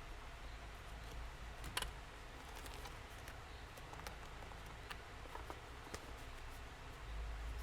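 Scattered light clicks and taps from handling journal-decorating materials, one sharper tap about two seconds in, over a steady low background hum.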